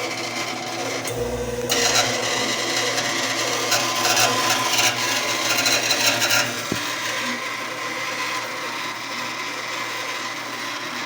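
Old Brastemp washing machine running with a continuous mechanical noise, louder and harsher for a few seconds about two seconds in, with a single click near the middle. The machine has the fault of neither agitating nor spinning.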